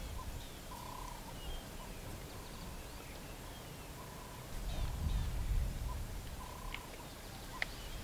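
Wild birds calling in the bush: a short hooting note repeated several times at irregular gaps, with faint higher chirps from small birds. A low rumble swells for a second or so about halfway through.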